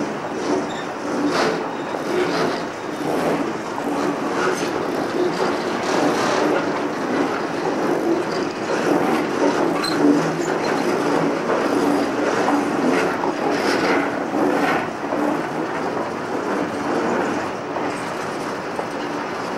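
Hopper wagons of a freight train rolling slowly past, their wheels running on the track with a steady noise and irregular clicks and knocks as they pass over rail joints and points.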